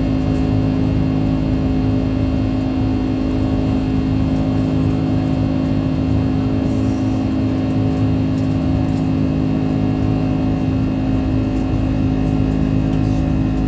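Airbus A330 jet engines and airflow heard inside the passenger cabin after takeoff: a steady drone with a constant low hum and a few fixed tones above it.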